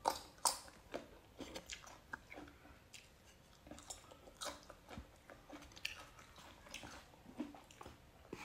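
Close-miked, quiet chewing of a mouthful of instant fried noodles, with irregular short clicks throughout.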